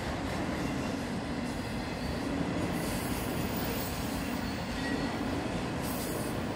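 CSX freight train of autorack cars rolling past, a steady rumble of steel wheels on the rails.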